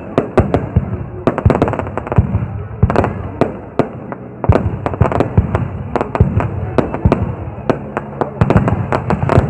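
Fireworks display going off: a dense, irregular string of sharp bangs and cracks, several a second, over a low rumble.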